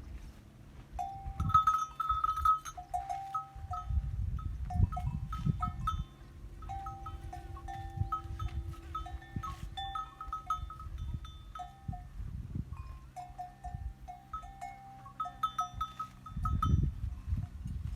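Bells on grazing livestock clinking irregularly, in short clear notes at two pitches, over a low rumbling noise.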